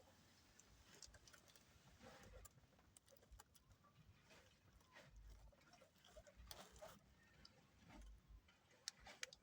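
Near silence with faint, scattered clicks and soft rustles.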